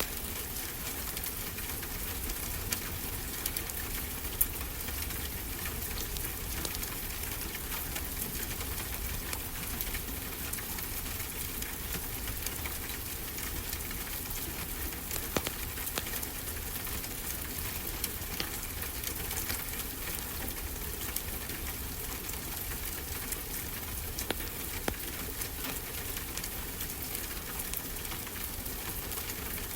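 Fireplace crackling, with scattered sharp pops, over a steady hiss and low rumble.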